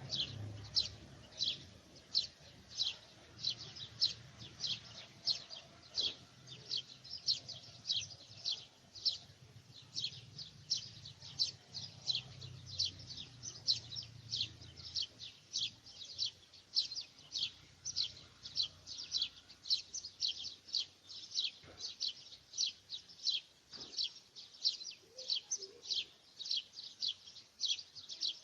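A bird calling over and over: a steady run of short, high, downward-sweeping chirps, about two or three a second.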